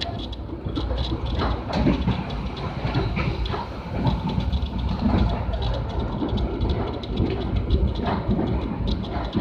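Passenger train running on its rails: a steady low rumble broken by irregular clicks and knocks from the wheels passing over the track.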